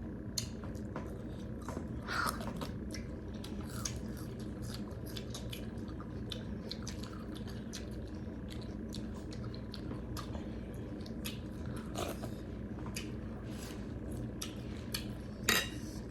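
Mukbang eating sounds of a dal-bhat meal: chewing and utensils clinking on plates, a steady scatter of small clicks over a low steady hum, with a louder clatter near the end.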